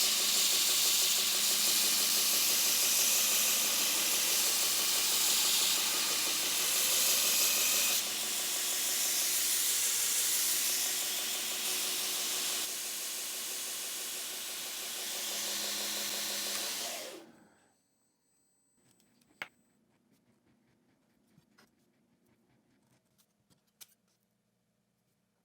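A workshop machine running with a loud, steady hiss, which dies away about three-quarters of the way through, leaving near silence with a few faint clicks.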